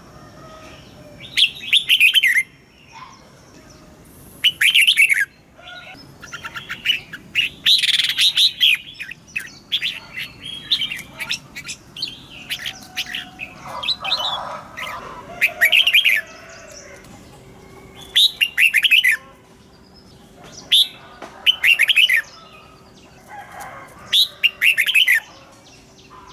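Red-whiskered bulbul singing: short, loud warbled phrases repeated every two to three seconds, with softer chirps between them.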